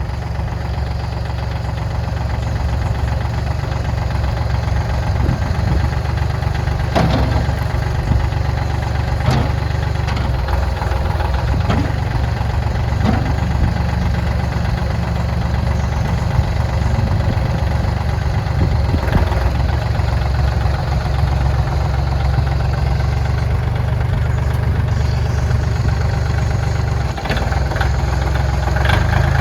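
Kubota L2550 tractor's diesel engine running steadily, with a few brief knocks over it.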